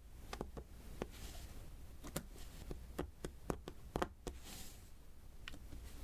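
Diamond painting: light, irregular taps and clicks as small resin diamond beads are pressed one by one onto the sticky canvas, about a dozen in a few seconds, with a faint soft rustle between them.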